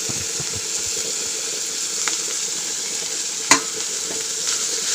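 An onion-tomato masala with mint frying in oil in a pan, sizzling steadily while it is stirred. There is a single sharp knock against the pan about three and a half seconds in.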